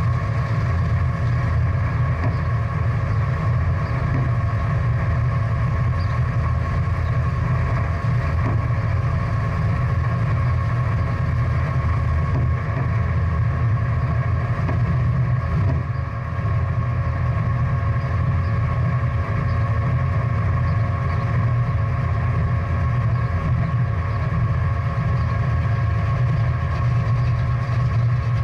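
Big-block V8 muscle car engine idling steadily with a deep, even rumble.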